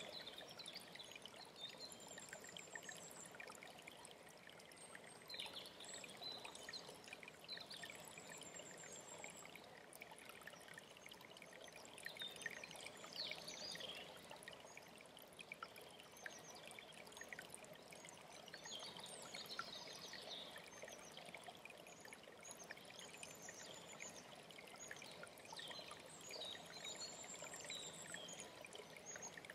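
Alpine stream flowing steadily, with songbirds chirping and trilling over it in short phrases throughout.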